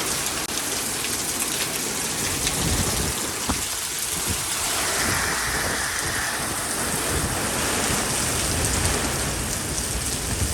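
Hurricane rain and wind: a steady rush of heavy rain, with low gusty rumbles now and then.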